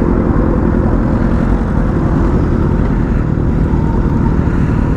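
A motorcycle being ridden at speed: a steady, loud rush of wind on the rider's microphone over the running engine.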